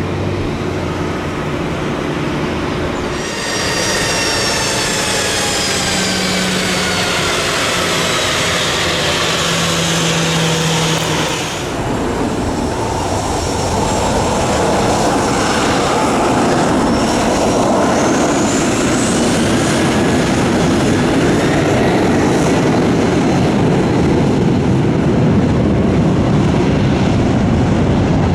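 Jet aircraft engines: a whine that slides slowly down in pitch as a jet passes, cutting off about halfway. A broad, steady engine roar then builds and holds loud to the end.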